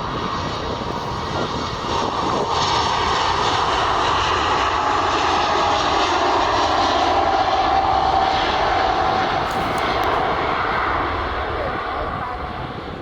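Airliner engines as a plane passes close by on the runway, growing louder to a peak midway and easing off toward the end, with a steady whine running through the loudest part.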